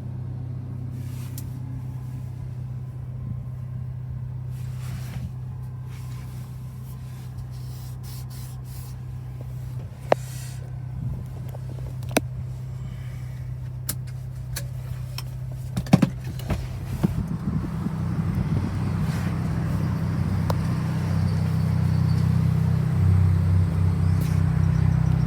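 Hyundai i20N's 1.6-litre turbocharged petrol engine idling, a steady low hum from the exhaust that grows louder over the second half. A few sharp clicks come through along the way.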